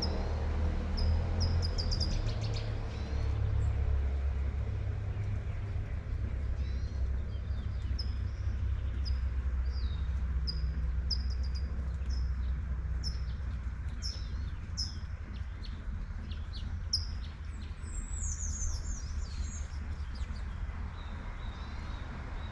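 A songbird chirping repeatedly, short high notes about once a second, with a quick run of higher notes near the end, over the steady hiss of light rain and a low rumble of traffic. A vehicle fades away in the first few seconds.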